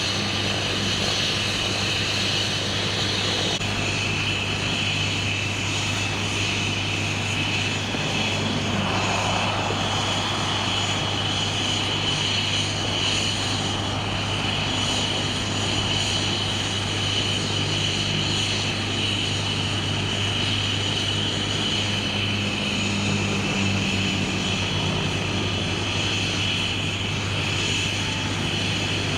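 Air ambulance helicopter running steadily: a constant high turbine whine over a low engine hum.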